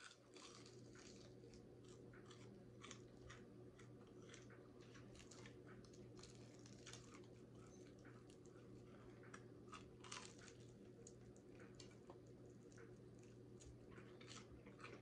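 Quiet chewing and crunching of fried chicken: many short, irregular crunches and mouth clicks. A faint steady low hum runs underneath.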